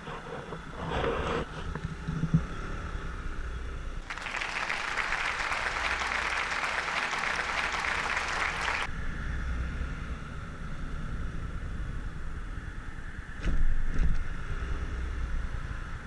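Motorcycle riding: a steady low engine-and-road rumble with wind on the microphone. A loud, even hiss starts suddenly about four seconds in and cuts off about five seconds later, and there are a few short knocks.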